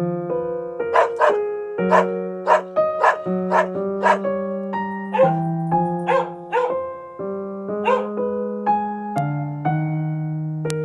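A dog barking repeatedly, about a dozen short barks often in quick pairs, over background keyboard music with held notes.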